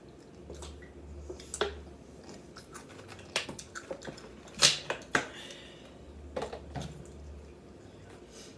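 Eating sounds close to the microphone: chewing with scattered small clicks and crackles, the loudest click about four and a half seconds in.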